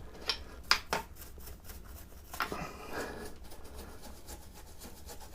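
Rubbing and handling on a Naumann 65 vintage sewing machine as it is cleaned, with a few sharp clicks in the first half and one more about two and a half seconds in.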